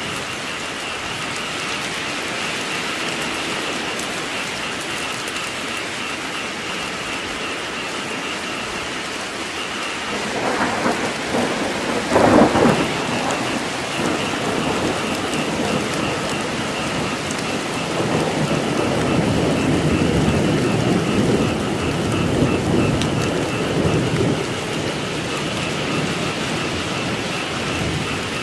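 Steady rain in a thunderstorm, with a sharp thunder crack about twelve seconds in and a long low rumble of thunder in the second half. Frogs call faintly as a pulsing chorus under the rain.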